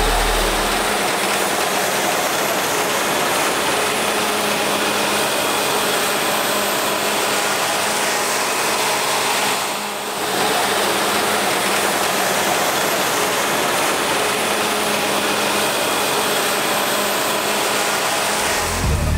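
Combine harvester running steadily in the field: a dense mechanical din with a few steady hum tones. It dips briefly about ten seconds in.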